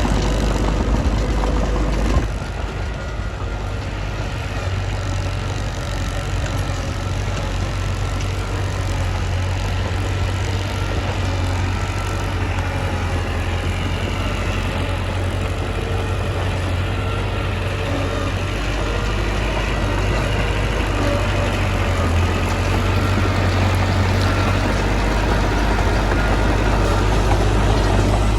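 Mitsubishi bulldozer's diesel engine running steadily with a deep low hum. The hum drops about two seconds in, then slowly builds back up.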